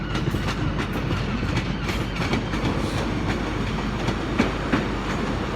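Two-car Class 150 Sprinter diesel multiple unit running slowly at the platform: a steady low diesel rumble with wheels clicking on the rails and light squeaks.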